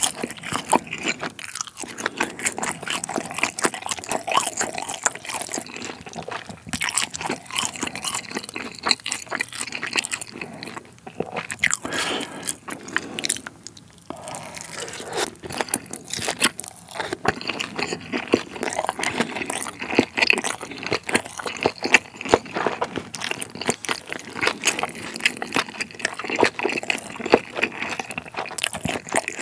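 Close-miked chewing and crunching of Sichuan-style tangsuyuk, battered fried pork in a sweet-spicy sauce: many irregular crisp crunches and bites, with a short lull about halfway through.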